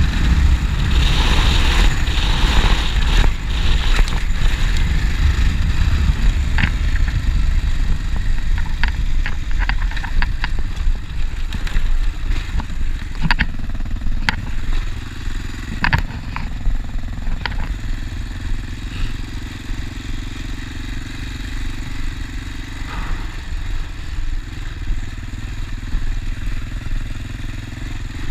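Honda Dominator NX650's single-cylinder four-stroke engine running as the motorcycle is ridden off-road, with scattered sharp clicks and rattles through the middle. About halfway through the engine eases off to a quieter, steadier note.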